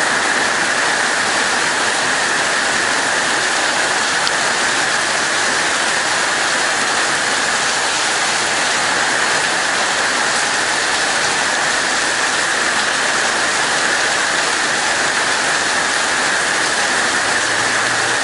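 Heavy tropical-storm rain pouring down in a steady, unbroken hiss.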